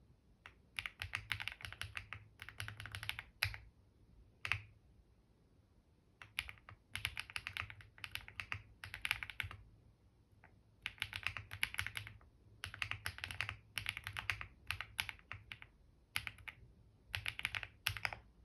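Typing on a computer keyboard in quick runs of keystrokes with short pauses between words and phrases, and a few single louder key presses like the space bar or enter.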